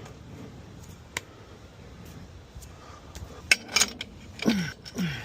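Metal hose fittings and adapters clinking and knocking together as they are rummaged through, in a cluster of sharp clinks over the last two seconds after a single click about a second in.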